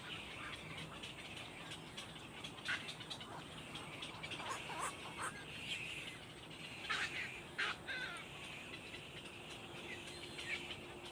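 Birds calling: scattered short, high chirps and quick downward-sweeping calls, with a few sharper, louder ones about 3 and 7 seconds in.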